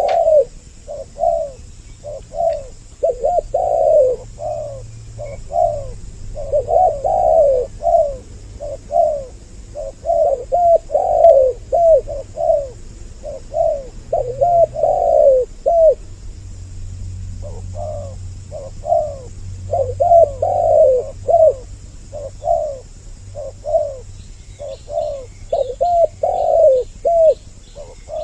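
Spotted doves cooing over and over in a dense run of phrases. The phrases overlap as if more than one bird is calling, in the 'double voice' lure call used to draw in males and females.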